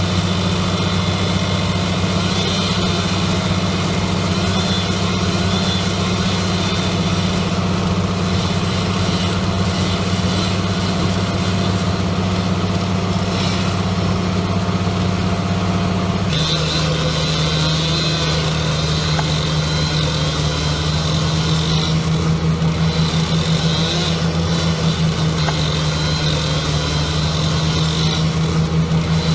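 An engine running steadily at a constant speed, its pitch dropping slightly about sixteen seconds in.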